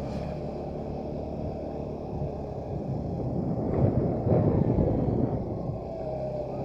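Motorcycle engine running at low riding speed, with wind noise on the microphone; the sound swells louder for a couple of seconds about four seconds in.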